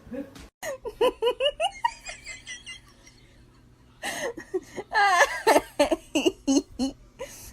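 People laughing: a quick run of giggles about a second in, then louder laughter from about four seconds in.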